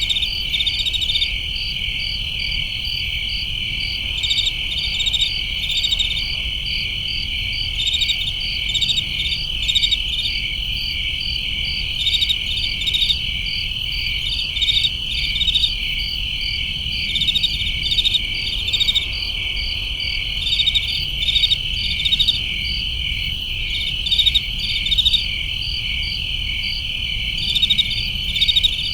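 Night chorus of crickets and other insects: a continuous high trill with rhythmic chirps over it, and louder pulsed chirping bursts every second or two. A low steady hum runs underneath.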